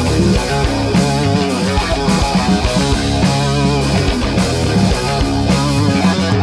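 Live rock band playing an instrumental passage with distorted electric guitar, bass and drums, in a raw punk-grunge style.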